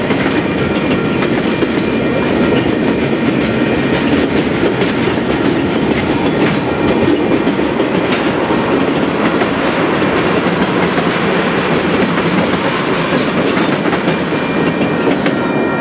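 Freight train cars rolling past close by: a steady rumble of steel wheels on rail with frequent clicks as the wheels pass over the track. The sound thins near the end as the last tank car goes by.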